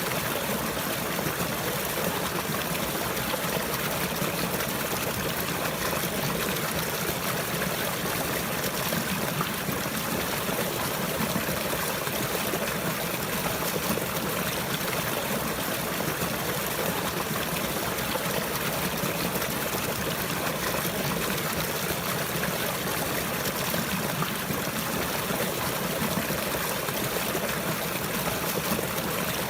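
Running water: a steady stream trickling and splashing.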